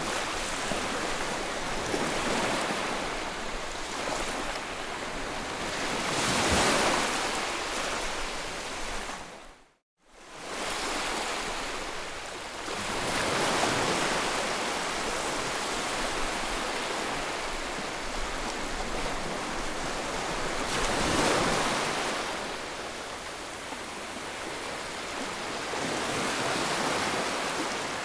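Ocean surf: waves breaking and washing in, swelling louder every several seconds. The sound cuts out to silence for a moment just before ten seconds in, then fades back.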